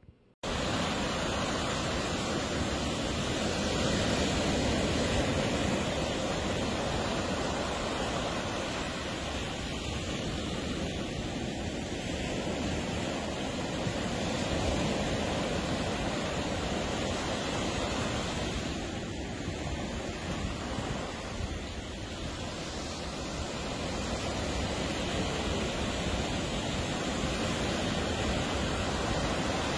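Ocean surf breaking on a beach: a steady rush of waves that cuts in abruptly at the start and slowly swells and eases over several seconds.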